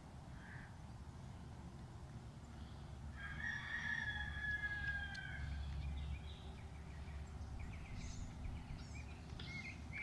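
A bird calls once, a long call held about two seconds that falls slightly in pitch, and short chirps follow near the end.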